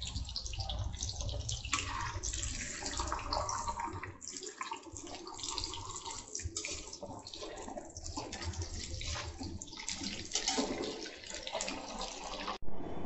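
Paneer slabs sizzling and crackling steadily in hot mustard oil in a kadhai on a high flame, with a metal spatula now and then scraping and turning them in the pan.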